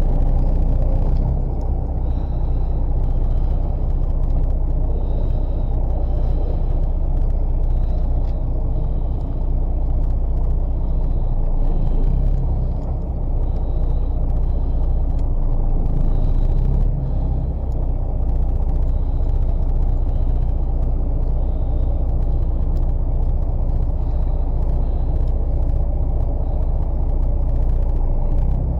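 Fishing boat's engine running with a loud, steady low rumble.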